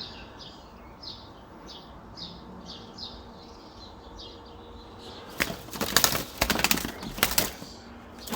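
A trapped bird's wings flapping in rapid flurries for about three seconds in the second half. Before that comes a run of short, high chirps about twice a second.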